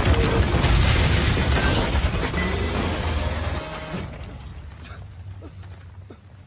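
Loud crashing, rumbling destruction sound effect with music underneath, dying away after about four seconds.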